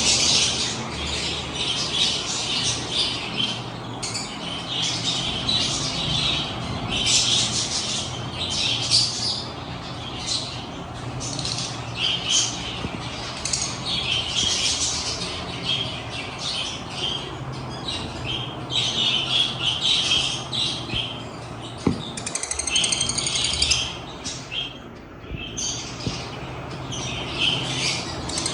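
A flock of lovebirds chattering and squawking continuously in shrill, high-pitched calls, with one longer, clearer call about two-thirds of the way through.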